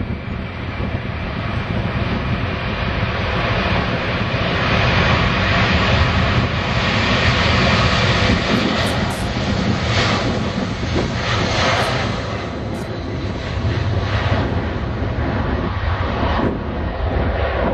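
Boeing 747-200 jet engines running, heard from the ground as a broad, loud rush of noise. It swells to a peak about seven seconds in and then eases off.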